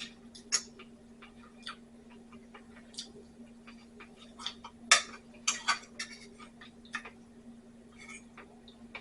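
Cutlery clinking and tapping against a dish while eating chili: irregular light clicks, with the sharpest tap about five seconds in. A faint steady hum runs underneath.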